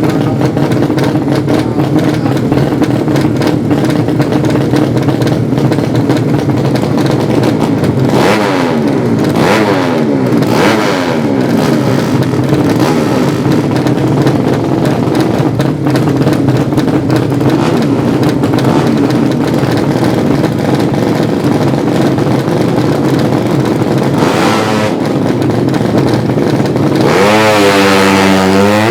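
Several 200cc underbone drag-racing motorcycle engines running loudly, with the pitch of individual bikes sweeping up and down as they are revved; one engine revs up sharply near the end.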